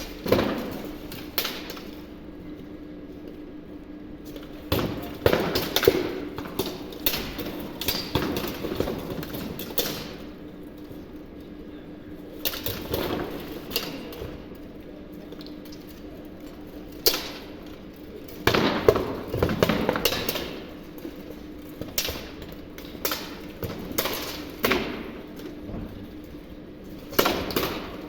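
Blunted steel weapons clashing on armour and shields in an armoured medieval combat bout: sharp metallic impacts, some single and some in quick flurries of several blows.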